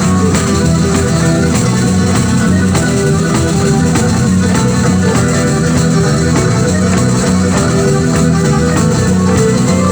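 Live pizzica, the fast Salento folk dance music, played by a band with steady, driving percussion under plucked strings.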